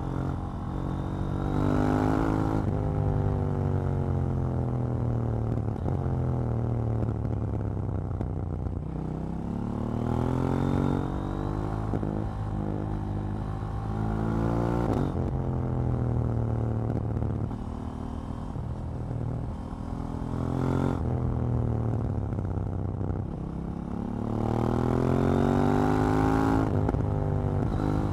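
KTM 790 Duke's parallel-twin engine, heard from the riding bike, pulling up through the revs again and again. The pitch rises on each acceleration and falls back between them, about five times.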